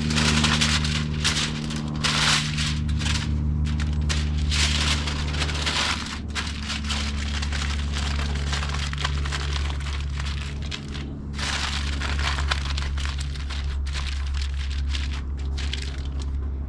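Aluminium foil crinkling and rustling in repeated surges as it is folded and crimped around a rack of ribs.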